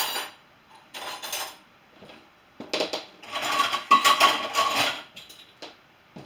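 Dishes and cutlery clattering as they are loaded into a dishwasher: several separate clinks and knocks, with a denser run of clattering about halfway through in which a dish or pan rings briefly.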